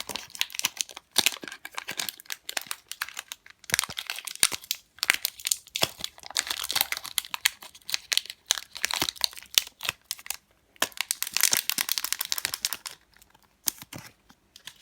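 A foil Pokémon trading-card booster pack being torn open and handled: irregular crinkling and crackling of the foil wrapper in bursts, with short pauses.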